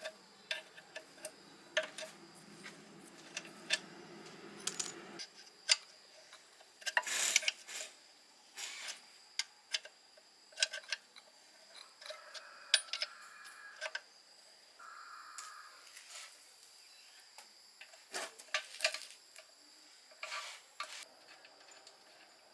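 Irregular metallic clinks and taps of hand tools and metal parts being handled, with a steady low hum that cuts off about five seconds in.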